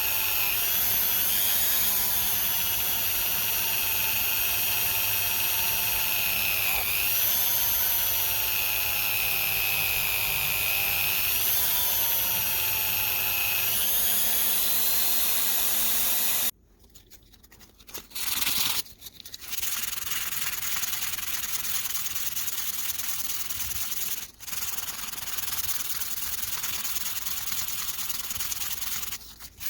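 A small high-speed power tool whines steadily, its pitch dipping now and then as it is pressed against the work. It stops abruptly about halfway. After a short pause, steady hand rubbing or sanding follows, with a couple of brief breaks.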